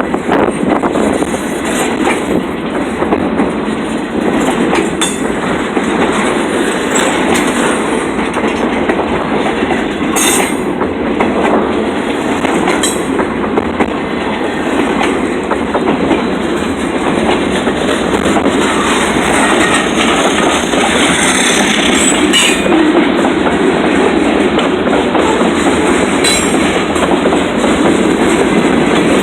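Train cars rolling steadily past on the track, wheels clacking over the rails, with a few sharp clicks here and there.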